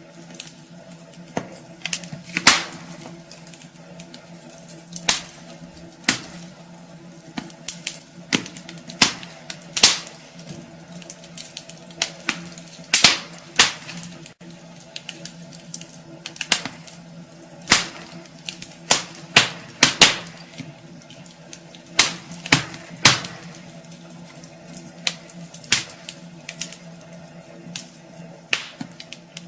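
Wood fire crackling in a fireplace: irregular sharp pops and cracks, a few loud ones every couple of seconds, over a steady low hum.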